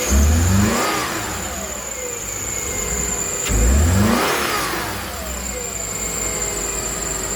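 2011 Subaru Forester's flat-four engine idling and blipped twice with the throttle, near the start and about three and a half seconds in; each rev rises quickly and falls back to idle within about a second and a half.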